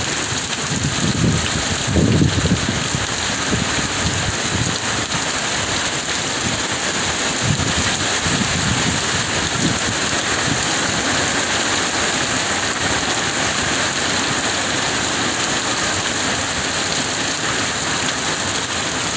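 Hurricane rain falling heavily as a steady hiss, with gusts of wind buffeting the microphone in low rumbles, strongest about two seconds in.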